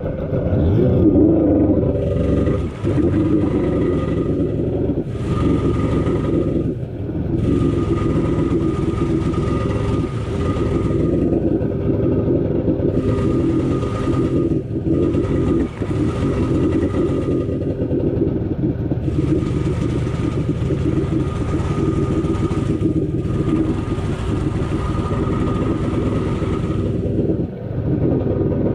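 Kawasaki X2 jet ski's 650 cc two-stroke twin running under way. Its engine note is steady, and a hiss comes and goes in stretches of a few seconds.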